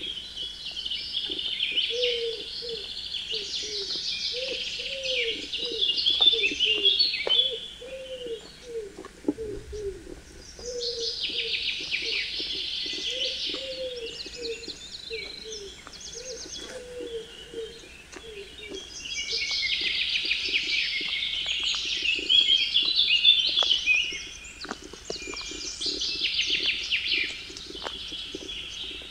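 Songbirds singing in dense, high twittering phrases a few seconds long, with short pauses between. A low note repeats steadily underneath.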